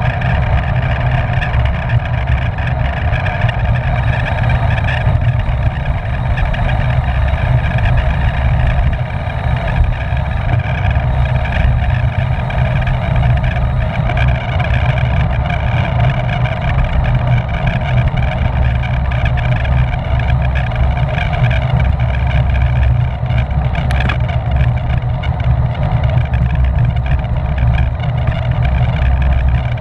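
Steady wind rush and rumble on the microphone of a road bike at race speed, with a constant hum from the rolling bike over it.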